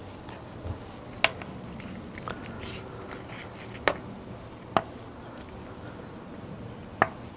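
Meat cleaver chopping through cooked pork baby back ribs onto a cutting board: four sharp, single chops at uneven intervals, with faint knocks of the pieces between them.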